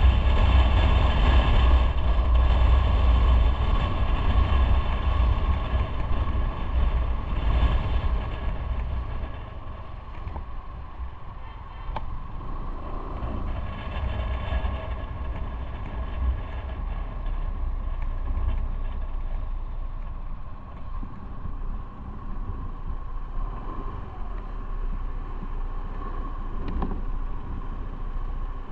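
Motorcycle underway: engine and wind rumble, louder for the first eight seconds or so, then easing to a lower, steadier level.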